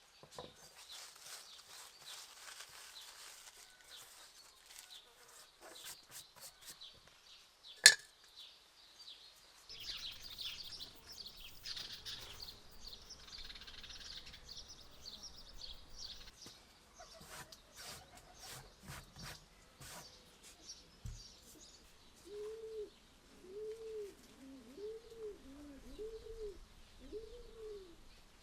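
Songbirds chirping and twittering, with one sharp click about a third of the way in. Near the end a dove coos a run of rounded low notes, about one a second.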